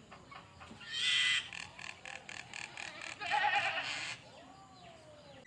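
A songbird singing varied song: a short buzzy trill about a second in, a longer warbling phrase around three seconds in, then a faint falling whistle.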